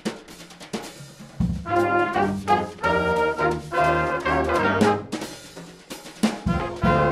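Brass ensemble music with trumpets and trombones over a drum kit, played in short loud phrases with brief breaks between them.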